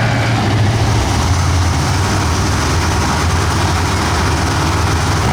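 Monster truck engine running loud and steady, its low pitch dropping slightly about a second in.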